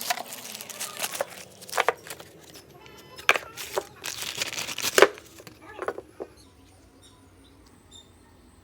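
Irregular sharp clicks and knocks, the loudest about five seconds in, dying away after about six seconds.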